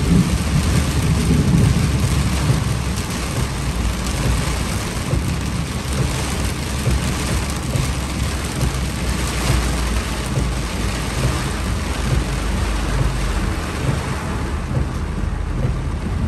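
Heavy wind-driven rain pelting a Duramax diesel pickup as it drives through a storm, heard from inside the cab as a steady hiss over a constant low rumble of road and engine noise.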